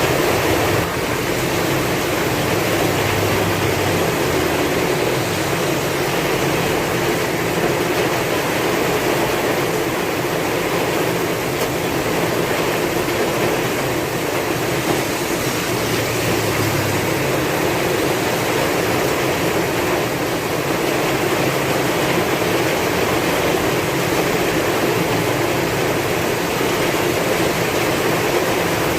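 Heavy rain falling steadily, with strong wind and a low rumble that swells and eases every few seconds.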